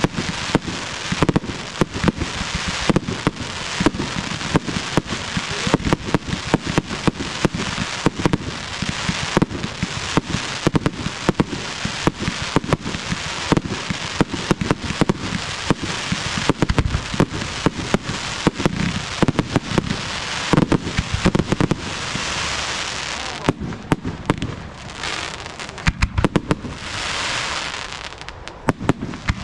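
Fireworks display: a rapid, unbroken stream of launch pops and shell bangs over continuous hissing and crackling. Past the middle the bangs thin out briefly, and near the end a steadier crackling hiss takes over, broken by a few last bangs.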